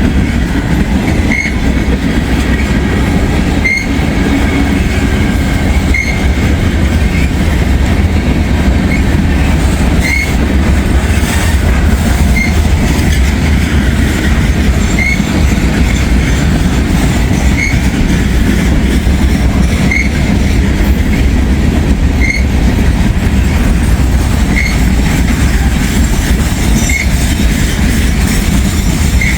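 Freight train cars rolling past at close range: a steady low rumble and clatter of wheels on rail. A short, high squeak repeats about every two and a half seconds.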